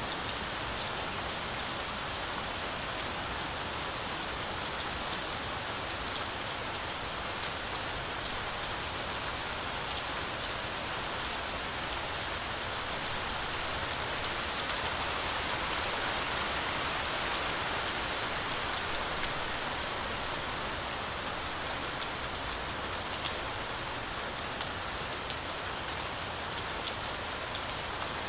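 Heavy rain falling steadily on a forest canopy, a dense even hiss with scattered drop ticks, swelling a little about halfway through.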